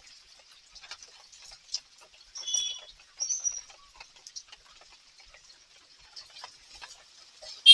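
Rain dripping and pattering as a steady scatter of small ticks, with no traffic rumble. Short high-pitched chirping calls from an animal come twice, about two and a half and three and a half seconds in, and a louder one starts at the very end.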